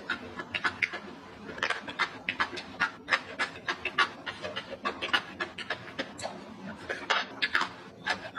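Close-miked chewing of crispy fried salted fish with rice, a rapid run of wet crunches and mouth smacks, about three or four a second.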